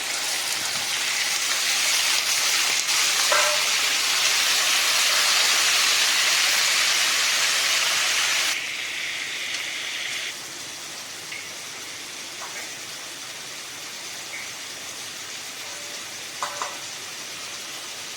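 Raw chicken pieces sizzling in hot oil with ginger-garlic paste and cumin, as the chicken begins to fry. The sizzle is loud at first, drops suddenly a little over halfway through, then carries on as a quieter steady sizzle with a couple of faint knocks.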